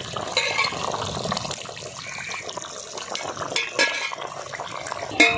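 Chicken curry gravy bubbling in a pot on the boil, a steady liquid hiss, with a few sharp clicks in the second half.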